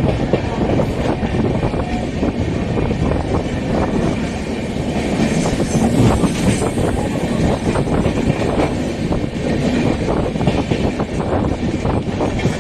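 Train running along the platform track, its wheels clattering steadily on the rails.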